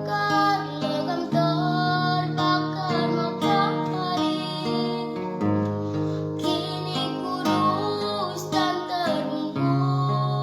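A song with a singing voice over acoustic guitar: plucked notes with sustained bass tones.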